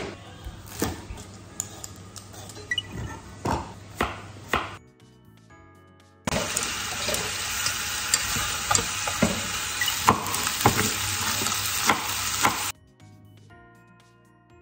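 Chicken wing pieces sizzling as they brown in a pot, a loud steady hiss for about six seconds in the middle that cuts off abruptly. Before it, kitchen knocks and clicks of cookware being handled; soft background music fills the quieter gaps.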